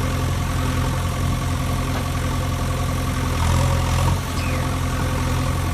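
Engine idling steadily with an even, low hum.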